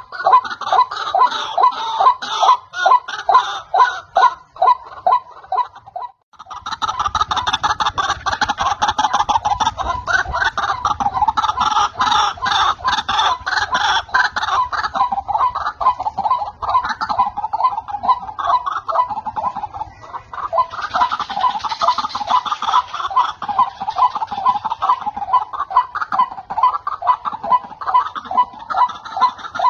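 White-breasted waterhen calling: a fast, unbroken run of repeated clucking notes, several a second, as used in a bird-lure recording. The calling breaks off briefly about six seconds in, then goes on.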